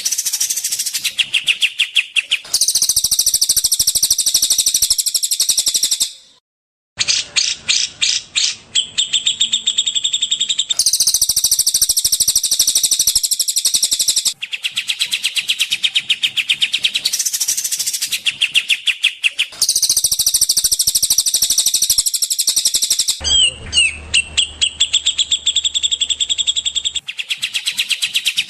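Recorded songbirds singing in fast, high-pitched chattering trills, spliced into blocks that change abruptly, with a brief silent gap about six seconds in.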